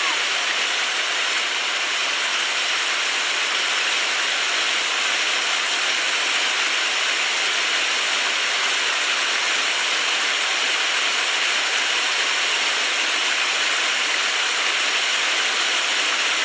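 Rushing water gushing steadily, like a flood pouring out, starting suddenly and holding at an even level.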